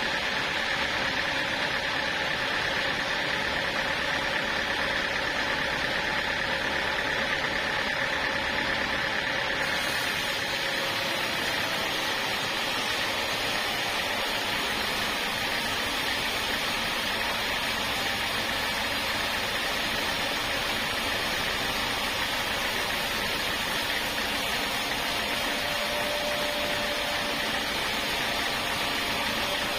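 Sawmill saw running steadily, with a steady whine at first; about ten seconds in a higher hiss comes in and continues.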